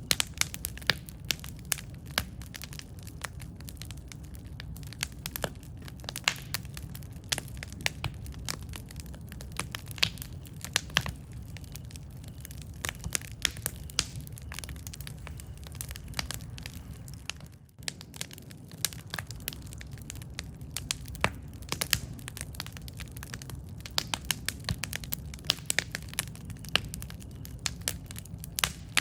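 Wood campfire crackling: frequent sharp pops and snaps over a low, steady rumble of burning. The sound dips briefly about two-thirds of the way through.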